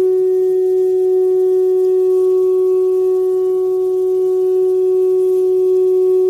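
Shofar (ram's horn) sounding one long, steady note, held without a break.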